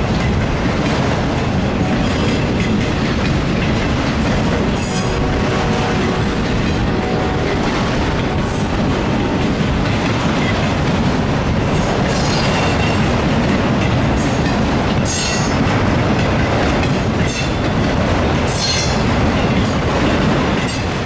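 Freight train of autorack cars rolling past: a steady rumble of steel wheels on rail, with brief high wheel squeals and clicks every few seconds.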